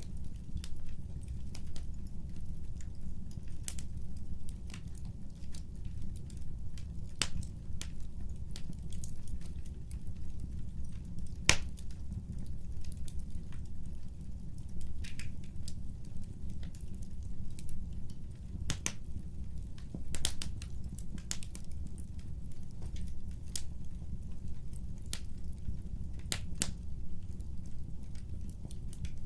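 Wood fire burning: a steady low rumble under irregular sharp crackles and pops from the burning logs, the loudest pop about eleven seconds in.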